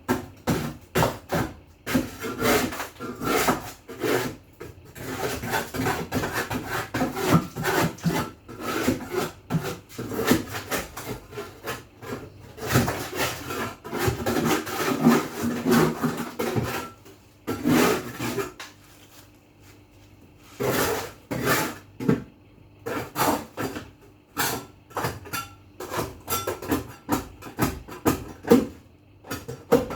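Hand scrubbing of a surface in quick, repeated back-and-forth strokes, with a short pause about two-thirds of the way through.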